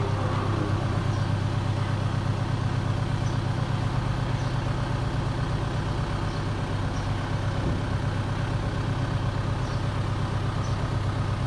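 Engine idling steadily with a low, fast, even throb.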